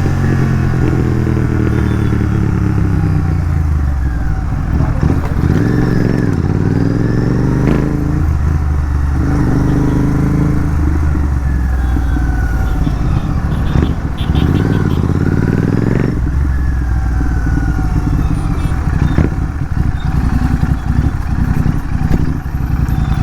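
Royal Enfield 650 parallel-twin motorcycle engine with aftermarket exhaust, revving under throttle. Its pitch climbs and drops several times.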